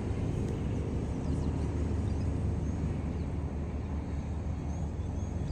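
Steady low rumble of an idling engine, with a few faint high chirps from birds over it.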